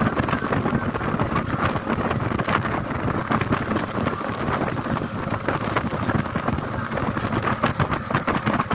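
Motorboat running underway, its motor noise mixed with wind buffeting the microphone.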